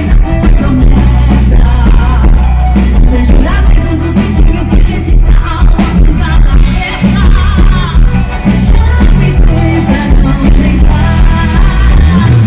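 A band playing loud pop music with a singer over a heavy, steady bass line.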